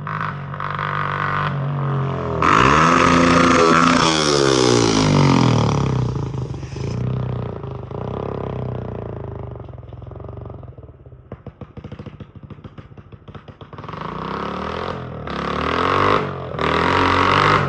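Straight-piped 2005 Kawasaki KLX125 single-cylinder four-stroke engine, open header only, being revved. It rises and falls back about two seconds in, settles to a low, choppy idle with the single firing pulses audible, then is blipped up again several times near the end.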